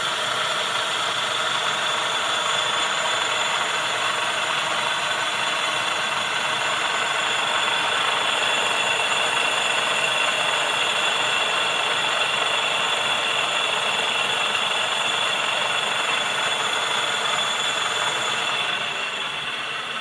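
Archimedean-screw treadle grinder's wheel spinning, a steady mechanical whirr with a high whine; it gets a little quieter near the end.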